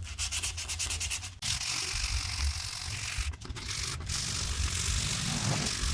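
Abrasive scrubbing on the rusty sheet steel of an old tool box, taking off rust. It starts as rapid, even strokes, about ten a second, then becomes a continuous rasp with two short pauses.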